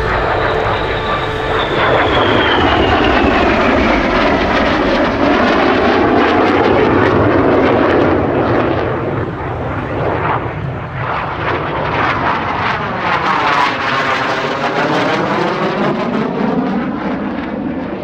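BAE Systems Hawk T.65A jet trainers passing in an air display: a loud jet roar with a high whine that falls in pitch over the first few seconds, swelling and easing again as they pass.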